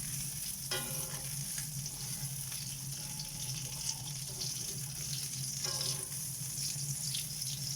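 Hot dogs frying in a pan, with a steady sizzling hiss as they finish browning. A steady low hum runs underneath, and two short pitched sounds come through, one about a second in and one near six seconds.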